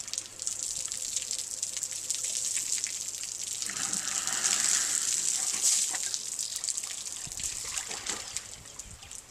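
Water splashing and sloshing in a swimming pool as an elephant wades in. It builds to its loudest about midway, then fades.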